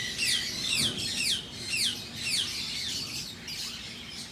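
A flock of lovebirds chirping together: a continuous run of short, high chirps, each falling in pitch, overlapping from many birds.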